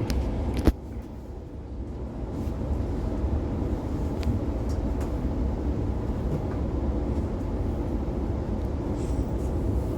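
Steady low rumble of an Oscar H set electric train running along the track, heard from inside the carriage. A single sharp knock comes just under a second in, after which the rumble drops briefly and builds back up over the next couple of seconds.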